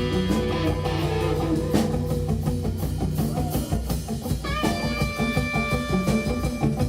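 Live instrumental jazz-rock band playing: an electric guitar lead over bass and drum kit. About four and a half seconds in, the guitar bends up into a long held note.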